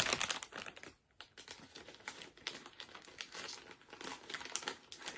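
Plastic candy wrapper crinkling as it is handled, in irregular crackles that are densest in the first second and sparser after a brief pause.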